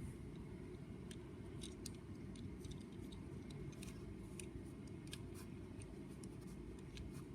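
Lego Technic model engine turning over, its plastic pistons and cams making many small irregular clicks over a steady low rumble.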